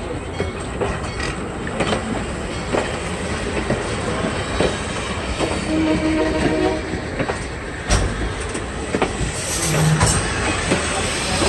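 Steel passenger coaches of an excursion train rolling past, their wheels clicking and knocking over the rail joints under a steady rumble. A short tone sounds about six seconds in.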